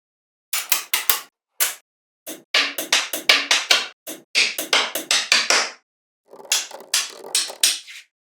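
An irregular run of sharp percussive hits in quick clusters, with short breaks between them.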